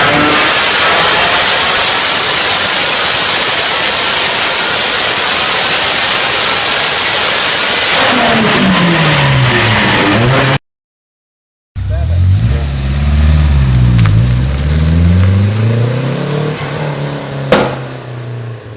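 Renault 5 Turbo engine running hard under a loud rush of noise, its revs dropping near the end. After a brief silent break, the engine is revved up and down several times, with one sharp crack near the end.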